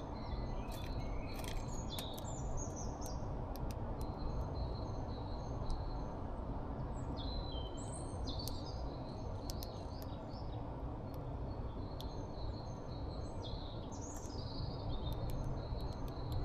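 Small birds chirping at a feeder: many short, high chirps and a few falling notes, scattered throughout, over a steady low background rumble.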